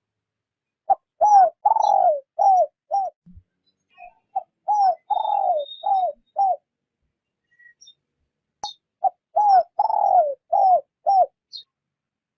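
Spotted dove (decoy dove) cooing, in the gentle 'rút bổi' call style, three times. Each phrase is about five short falling coos with one longer drawn-out coo among them.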